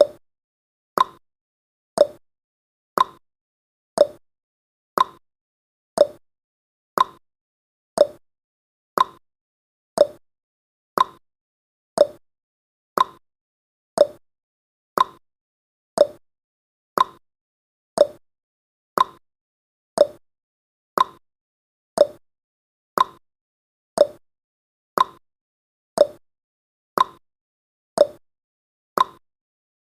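Clock tick-tock sound effect: even, sharp ticks two per second, alternating a louder, higher tick with a softer, lower tock.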